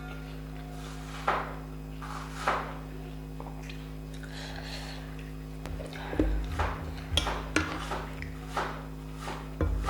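Close-miked eating sounds: irregular wet chewing and mouth smacks while eating poori and chhole, sparse at first and coming thick and fast over the last few seconds, over a steady low electrical hum.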